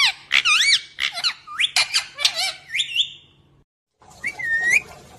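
Pet parrot calling: a quick run of short, high, squeaky chirps that sweep up and down in pitch, then after a brief break one more drawn-out call that rises at the end.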